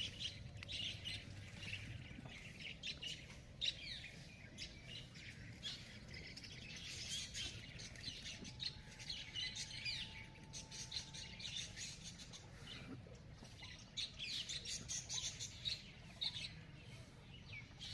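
Several small birds chirping and twittering together in a dense chorus of short, high calls, over a steady low rumble.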